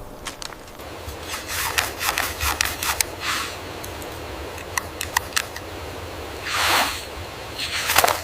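Irregular clicks and knocks mixed with short scraping swishes over a low rumble, with two longer swishes about six and a half and eight seconds in.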